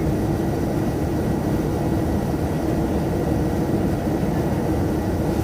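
Steady cabin drone inside a Boeing 787-9 Dreamliner in flight: an even low rumble of engines and rushing air with a faint steady hum, unchanging throughout.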